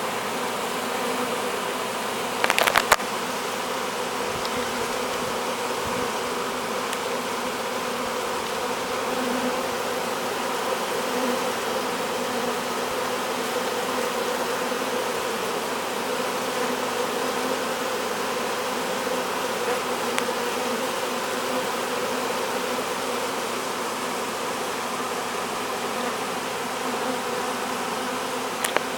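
Honey bee swarm buzzing steadily, a dense hum of thousands of bees as they march into the hive and fan their wings at the entrance. A brief knock about two and a half seconds in.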